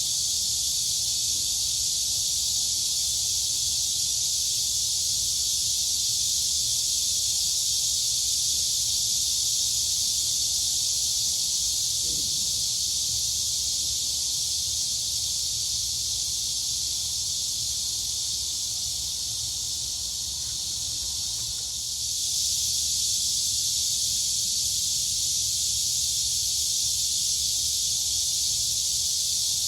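Dense chorus of crickets and cicadas: a steady, high-pitched, hiss-like drone. It dips slightly a little past the middle and comes back to full strength about three-quarters of the way through.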